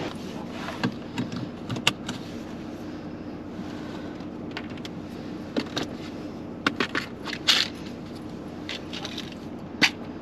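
A vehicle engine running steadily, with a scatter of sharp metallic clicks and clinks over it, the loudest about two seconds in, near the middle, and near the end.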